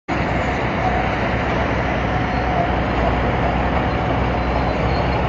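Heavy diesel engines running steadily: a Hitachi ZX200 excavator working at a UD Nissan truck while loading it.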